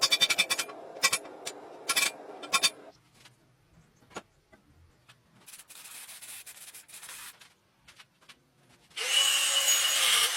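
Metalworking on the leaf-spring steel: a quick run of short scraping or rubbing strokes with a metallic ring, then a quiet stretch with a few clicks. About nine seconds in, a power tool starts running loudly and steadily.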